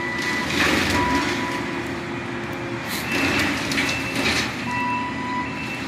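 Steady vehicle noise, with a few brief high, steady tones coming and going.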